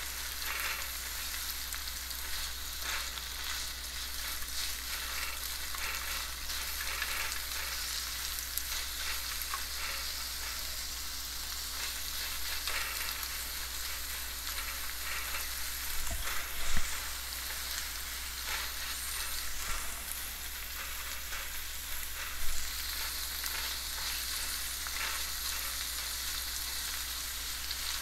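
Sliced onions and curry leaves sizzling in hot oil in a non-stick wok, stirred with a silicone spatula: a steady sizzle with the soft scrape of the spatula strokes. Two louder knocks stand out, one a little past halfway and one about six seconds later.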